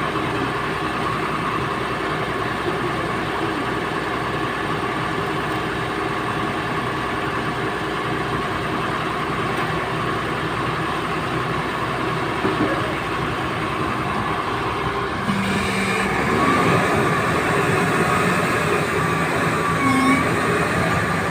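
Heavy truck engine running steadily under load. About fifteen seconds in the sound changes abruptly and gets a little louder.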